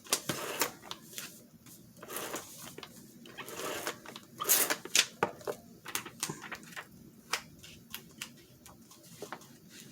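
Paper cut-outs being handled and pressed down: brief rustles and crinkles with many light clicks and taps at irregular intervals.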